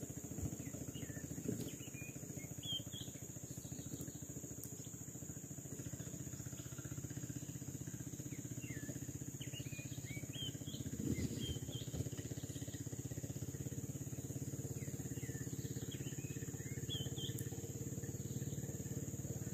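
Quiet outdoor ambience: faint, scattered bird chirps over a steady high hiss and a low rumble, with a few soft knocks around eleven to twelve seconds in.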